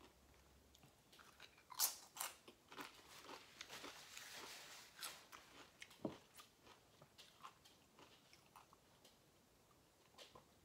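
Tortilla chip being crunched and chewed close to the microphone: a run of short, crisp crunches, thinning out after the first few seconds.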